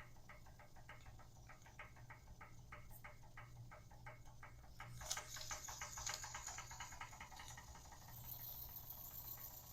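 Weeden No. 10 toy steam engine running slowly: a faint, regular ticking about four or five times a second. A hiss joins the ticking about halfway through.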